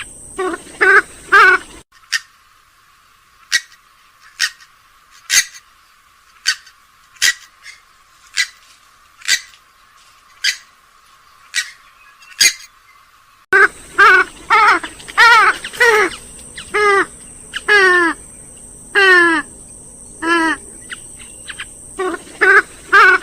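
Recorded purple swamphen and common moorhen calls: runs of loud, nasal, harsh calls. About two seconds in the recording cuts abruptly to short sharp single notes about once a second, then near the middle it switches back to quick runs of the nasal calls.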